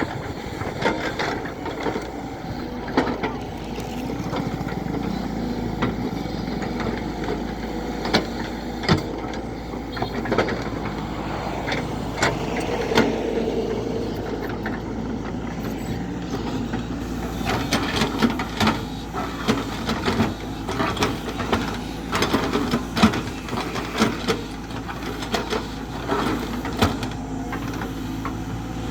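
Backhoe loader's diesel engine running steadily, with frequent short clanks and knocks that come thicker in the second half.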